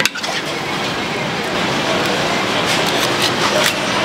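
Pad thai noodles stir-frying in a hot pan: a loud, steady sizzle with a few sharp clicks.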